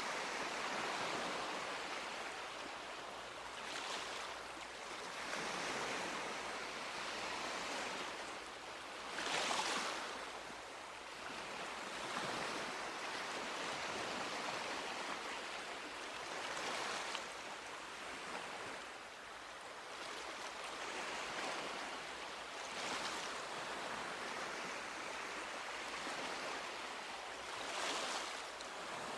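Sea waves breaking and washing up a beach, a fresh wave swelling every few seconds, the loudest about a third of the way in.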